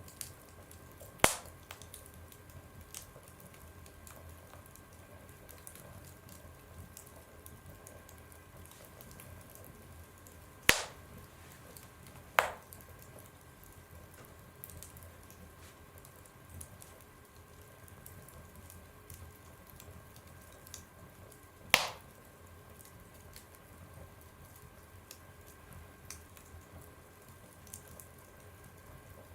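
Wood fire burning in a stove: a low steady background with scattered small crackles, and four loud, sharp pops about a second, eleven, twelve and twenty-two seconds in.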